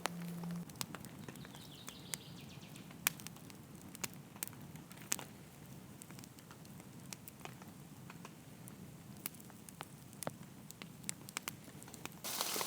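Campfire crackling faintly, with scattered irregular pops and snaps. Just before the end, a louder steady hiss of rain cuts in.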